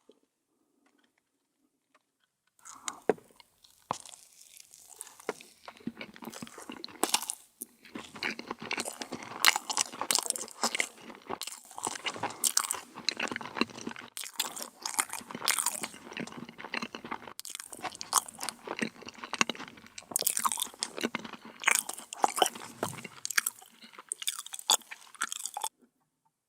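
Close-miked crunching and chewing of a crisp dessert, a dense run of sharp crackles. It starts about two and a half seconds in and stops shortly before the end.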